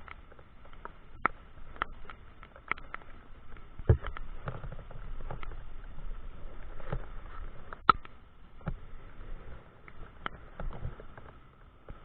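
Rain pattering on the camera and microphone: irregular taps and clicks, with two louder knocks, about four and eight seconds in.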